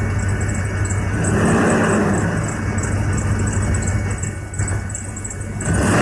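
1999 Dodge Durango's 5.9-litre Magnum V8 idling after a cold start, with its engine cooling fan running very, very loud: a steady low hum under a rushing whoosh that swells about a second in and again near the end.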